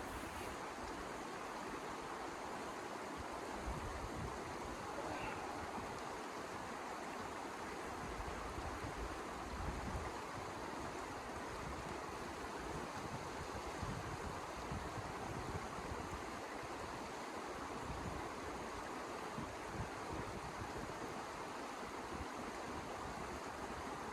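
Blizzard wind blowing as a steady, even rushing noise, with irregular low rumbling gusts underneath.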